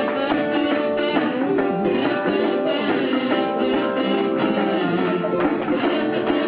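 Instrumental break of an old-time song played live on plucked string instruments, with no singing.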